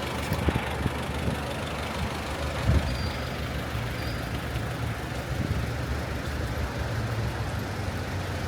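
Street traffic: a steady low engine hum from a nearby motor vehicle, with a few dull thumps, the loudest about two and a half seconds in.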